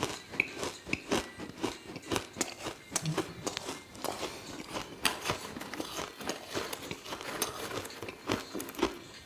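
Ice being bitten and chewed close to the microphone: a quick, irregular series of sharp crunches and crackles.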